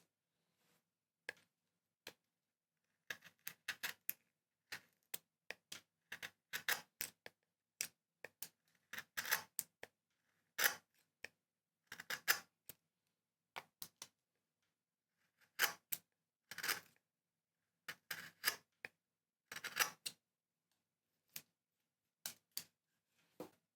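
Hand carving tools cutting into wood: a series of short, irregular cutting and scraping strokes, some single sharp clicks and some slightly longer, with brief pauses between them.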